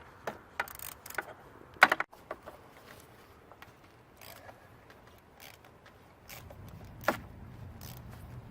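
Irregular metallic clicks and clinks of hand tools being handled, several close together in the first two seconds, the loudest about two seconds in, and another sharp one near the end.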